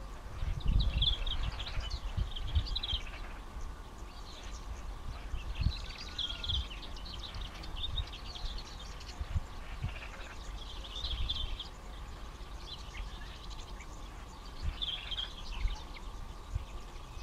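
Small birds chirping in short bursts every few seconds, over a faint steady hum and low rumbling that is strongest near the start.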